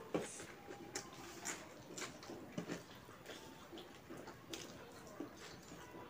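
A person chewing food with soft, wet mouth clicks and smacks at irregular intervals, the sounds of eating with the fingers.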